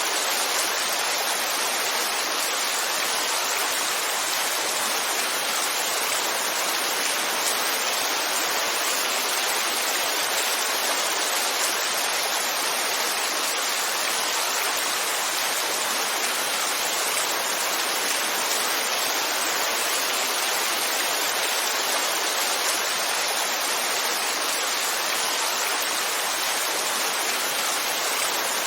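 Heavy rainfall: a steady, even hiss that holds unchanged throughout.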